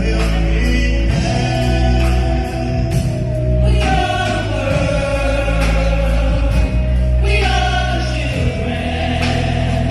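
Gospel choir singing long held notes over band accompaniment with a heavy bass.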